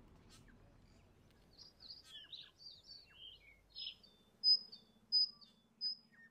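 Birds chirping and twittering in quick short calls, then three clear high whistled notes about two-thirds of a second apart, the loudest sounds.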